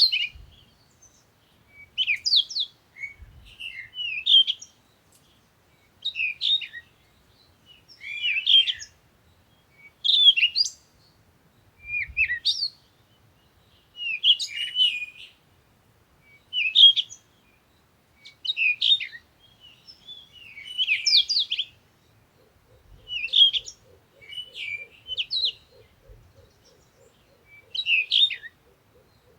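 A songbird singing short, twittering phrases, one about every two seconds.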